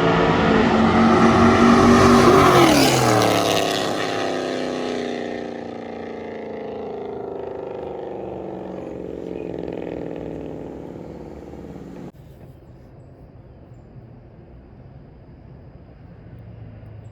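Car engine revving hard with a loud rushing noise, its pitch dropping sharply about three seconds in. The engine sound then slowly lowers and fades as the car moves off, and cuts off suddenly about twelve seconds in, leaving only a faint low background.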